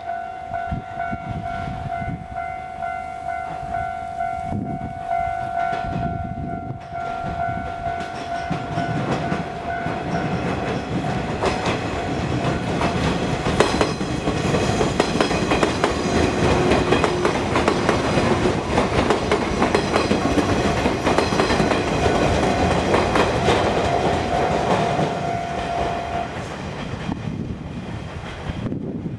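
Japanese level-crossing alarm ringing steadily as a JR West limited express electric train approaches and passes over the crossing. Its wheels clack over the rail joints and its rumble is loudest mid-way, then fades. The crossing alarm stops a few seconds before the end.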